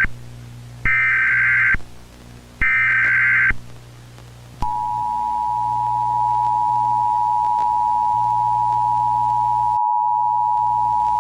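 Emergency Alert System broadcast warning. Two more of the short screeching bursts of the digital header code, then about a second later the steady two-tone attention signal starts and holds, over a low hum.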